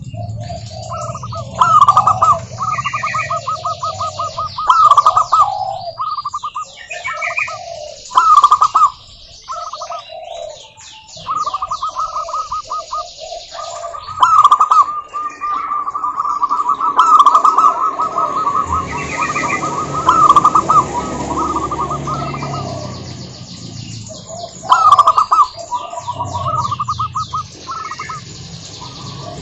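Zebra doves cooing: repeated phrases of quick staccato, trilled coos with lower purring notes beneath, some phrases overlapping.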